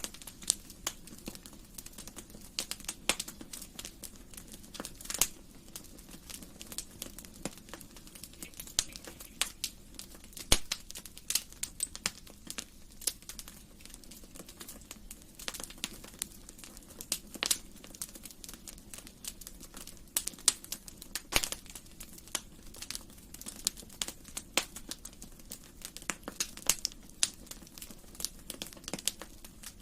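Wood fire crackling steadily in a fireplace, with irregular sharp pops and snaps over a low hiss.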